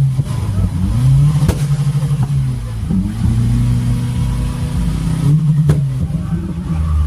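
Engine revving and accelerating, its pitch climbing and levelling off again several times.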